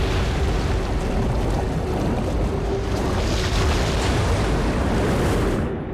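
Film sound effects of an oncoming flood: a loud, steady roar of rushing water and wind over a deep rumble, cutting off suddenly near the end.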